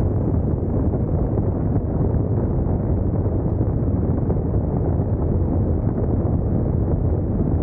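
Steady wind rumble on the microphone mixed with the road and engine noise of a Honda NC750X DCT motorcycle on the move.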